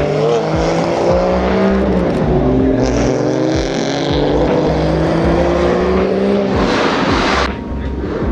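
Car engines running and revving as cars drive past, their pitch rising and falling. A loud rush of noise comes about seven seconds in.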